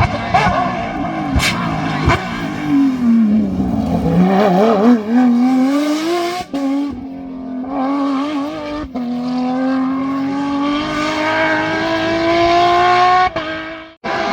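Rally car engine on a stage: the revs drop as it slows, then it accelerates hard, the pitch climbing steadily with a couple of brief breaks at the gear changes. Two sharp pops come near the start.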